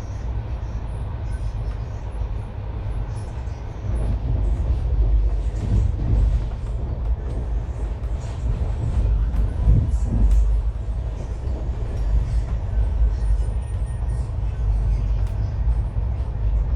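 Train running on the rails: a steady low rumble with clatter from the wheels and cars, getting louder about four seconds in.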